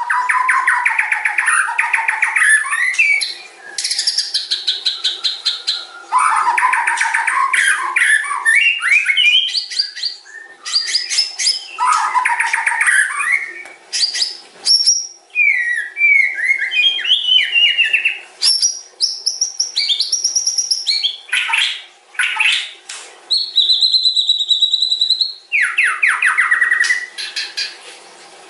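White-rumped shama (murai batu) singing a long, varied song of fast rattling trills and clear rising and falling whistles, with one long held whistle near the end, over a faint steady background.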